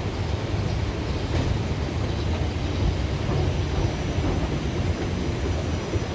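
Steady rumble and hiss of the Whoosh high-speed train running, heard from inside the passenger car.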